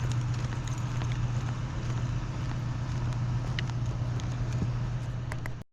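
A vehicle driving: a steady low engine and road drone under an even hiss of road noise, with a few faint clicks. It cuts off abruptly near the end.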